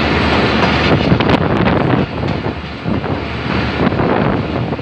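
Passenger train coaches running, heard from an open carriage window: steady wheel-on-rail noise with wind buffeting the microphone. A short run of sharp clatter comes about a second in, and the noise eases a little after about two seconds.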